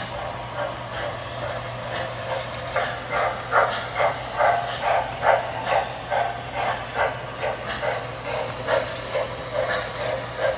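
Several MTH model trains running together over a steady low hum. From about three seconds in, a fast, regular beat of about three pulses a second comes in and is the loudest sound.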